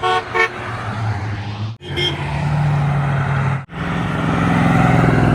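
Two quick car-horn toots, then classic car engines running low and steady as the cars drive past, in short clips that cut off abruptly twice.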